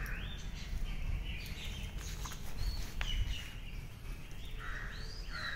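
Birds chirping, several short calls that rise and fall in pitch, over a steady low rumble.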